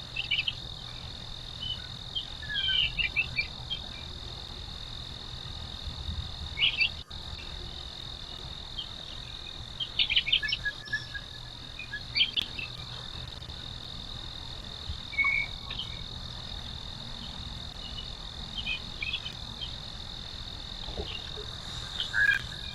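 A steady, high-pitched outdoor chorus of insects, with short bird chirps breaking in at irregular intervals.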